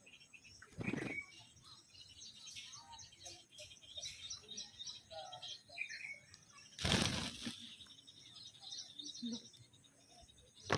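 Green parrots flapping their wings in two short bursts, about a second in and again about seven seconds in, with faint chirping calls in between.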